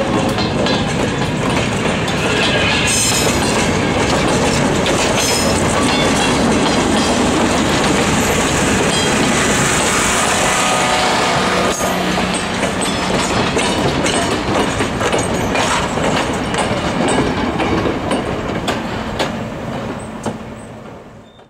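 Railroad freight and passenger cars rolling past close by, the wheels clicking steadily over the rail joints, with a high squeal from the wheels around the middle; the sound fades out near the end.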